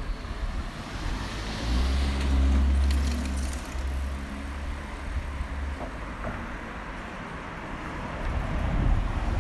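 A motor vehicle passes close by on a street, its engine rumble swelling to loudest about two to three seconds in and then fading.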